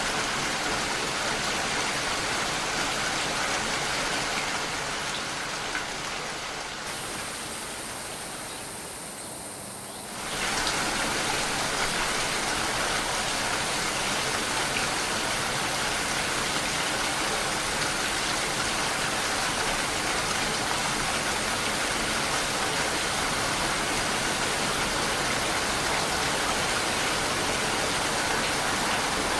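Steady rain, an even hiss of falling water. From about four seconds in it fades and turns duller, then about ten seconds in it cuts back in suddenly at full strength.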